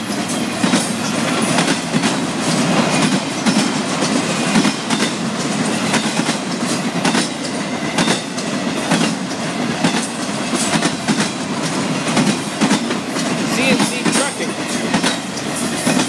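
Florida East Coast Railway freight cars rolling past at speed: a steady loud rumble of wheels on rail, broken by many sharp clacks as the wheels cross rail joints.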